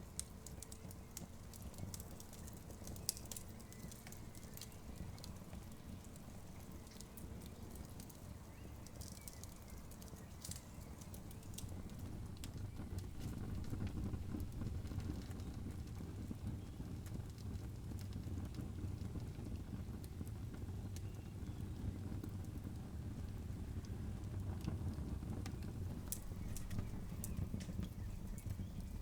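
Campfire crackling, with scattered sharp pops and snaps over a low rumble. The rumble grows louder about halfway through, while the pops thin out.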